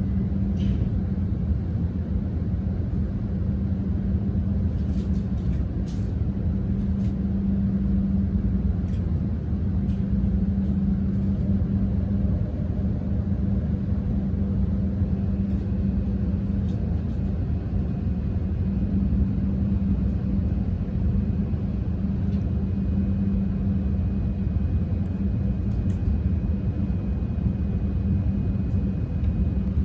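Steady low rumble with a constant hum underneath, the running noise of a Tohoku Shinkansen train heard from inside the car.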